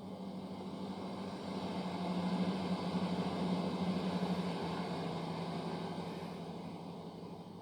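Great Western Railway passenger train passing through the station without stopping: a rushing noise with a steady low hum that builds, is loudest a few seconds in, then fades as it moves away.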